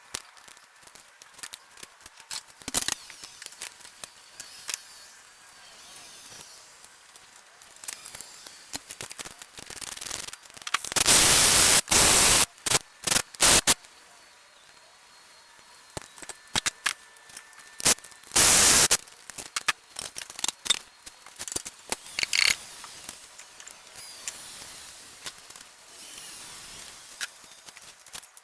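Scattered metal clicks and clanks of work in a car's engine bay during an engine removal, with two loud bursts of rushing noise, one about eleven seconds in lasting over a second and one about eighteen seconds in.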